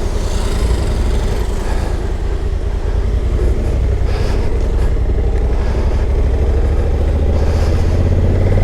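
Steady low rumble of a running motor vehicle engine, with road noise.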